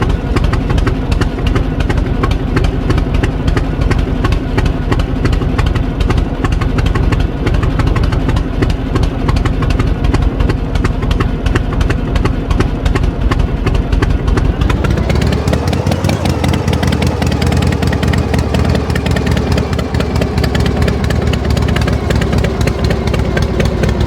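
Tractor engine idling steadily, then revving up about two-thirds of the way through and running on at a higher speed.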